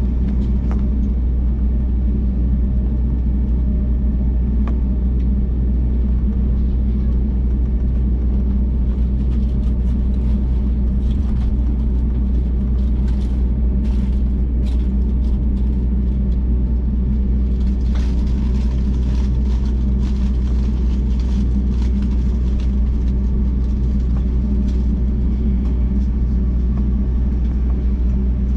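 Jet airliner's engines and cabin airflow heard from inside the cabin: a steady, loud low rumble with a constant hum, and light scattered rattles and clicks partway through.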